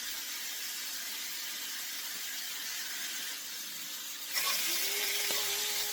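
Stew meat sizzling as it browns in a cast iron skillet: a steady frying hiss that grows louder about four seconds in.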